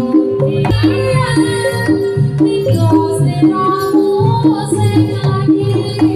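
Javanese traditional ensemble music accompanying a Samboyo dance: a repeating figure of pitched metal gong-chime notes over steady drum strokes, with a wavering, sliding melody line above.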